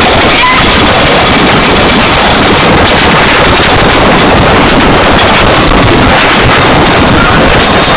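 Harsh noise music: a dense, heavily distorted wall of static at very high volume, unchanging in loudness, with faint short whistling tones flickering through it.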